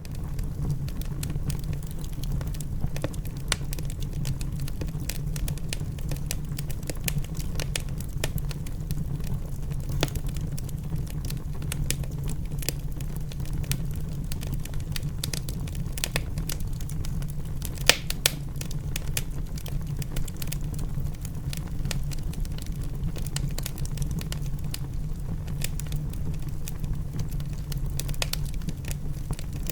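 Wood fire crackling in a fireplace: irregular sharp pops and snaps, the loudest about 18 seconds in, over a steady low rumble. It starts suddenly at the beginning.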